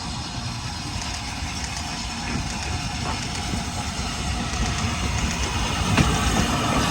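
Train running on the rails, a steady rumble that slowly grows louder.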